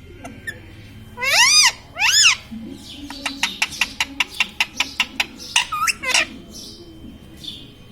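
Pet parrot giving two loud, arching screeches, then a fast run of sharp clicks at about seven a second, then two shorter calls.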